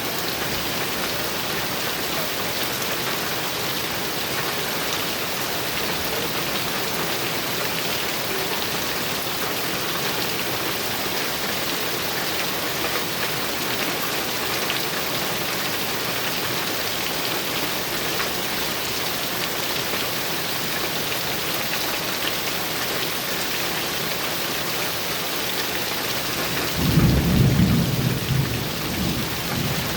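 Heavy rain drumming steadily on a metal roof, with a loud low roll of thunder near the end that fades over a couple of seconds.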